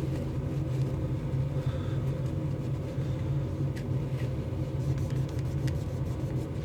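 Steady low background hum or rumble, with a few faint light clicks partway through.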